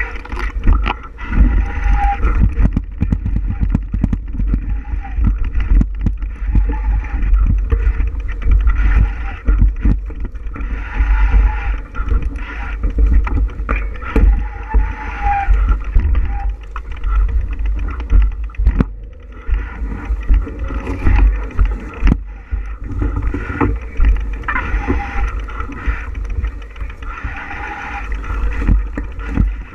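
Wind rumbling on the microphone of a moving bicycle, with frequent knocks and rattles as the bike rolls over the trail surface.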